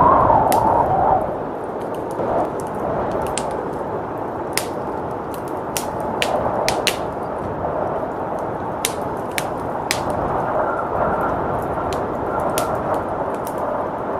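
Wood fire crackling in a fireplace, sharp irregular pops, over a steady blizzard wind; a gust swells at the start and eases off about a second in.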